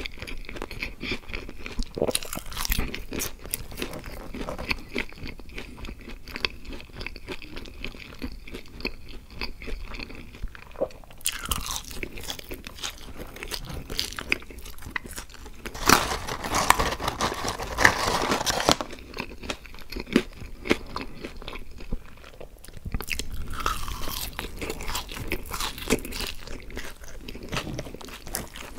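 Close-miked chewing of French fries, with crunching and mouth sounds. The chewing gets denser and louder for a few seconds a little past the middle.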